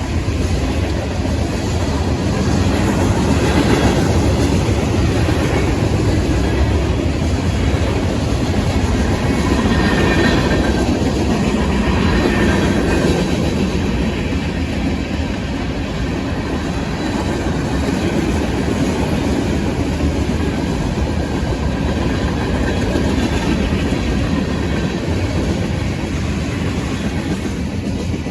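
Freight train rolling past at steady speed, its wheels clicking and clattering over the rails.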